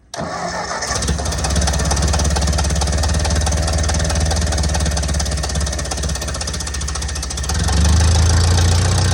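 Ford 600 tractor's four-cylinder gasoline engine starting up suddenly and running with a rapid, even beat, on a freshly cleaned carburetor after years of sitting. It gets louder about three-quarters of the way through.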